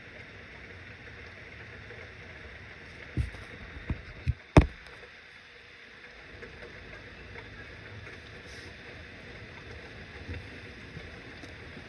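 Steady rain falling, an even hiss. A run of four dull thumps comes about three to five seconds in, the last the loudest, with a fainter one later.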